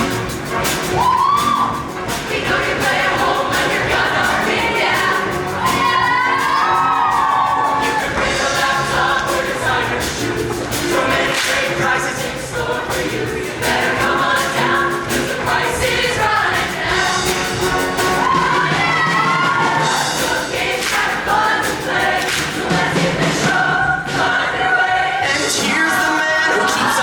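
High school show choir singing a number with musical accompaniment, many voices together.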